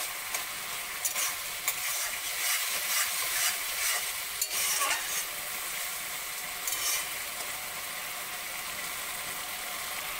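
Potato and chickpea curry masala sizzling in oil in a kadai while a metal spatula stirs and scrapes against the pan. The spices are being fried down (koshano) after a little water was added. The scrapes come through the first two-thirds, then the sizzle goes on steadily alone.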